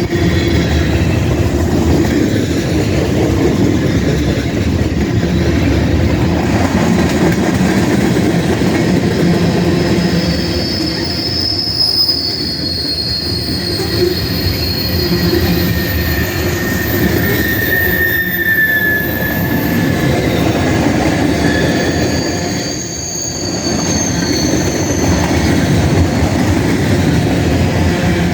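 Freight cars of a CSX manifest train rolling past, with a steady rumble of wheels on the rails. From about a third of the way in, high-pitched wheel squeal comes and goes.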